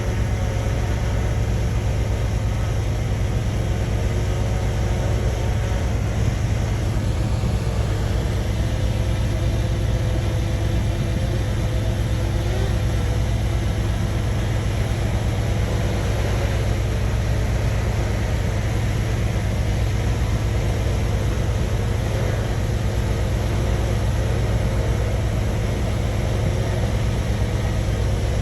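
Heavy earthmoving machine's diesel engine running steadily, a deep, even engine note that holds the same pitch throughout.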